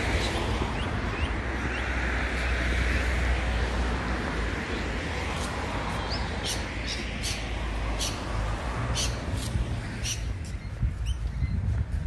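Small birds chirping in short, sharp high notes, busiest in the second half, over street ambience: a passing car's tyre noise swells and fades in the first few seconds, with a steady low rumble throughout.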